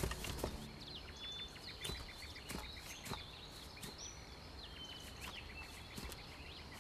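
Small birds chirping and whistling in short, scattered notes over a faint outdoor background. There is a single sharp knock at the very start.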